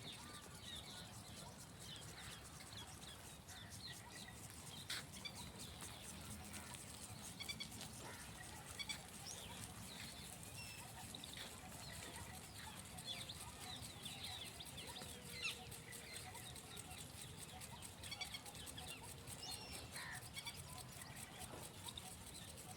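Small birds chirping in many short, scattered calls over a steady low background rumble.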